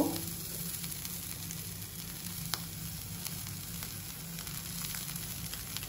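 Besan dosa batter sizzling steadily on a hot dosa pan as it cooks, with a steady low hum underneath and one sharp click about two and a half seconds in.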